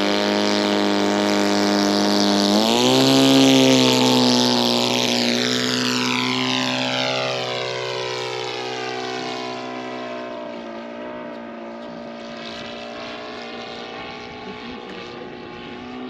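Laser 200 in-line twin four-stroke glow engine of a radio-control model warplane running at high throttle on take-off, opening up further about three seconds in. Its higher tones then sweep lower and the sound slowly fades as the model flies away.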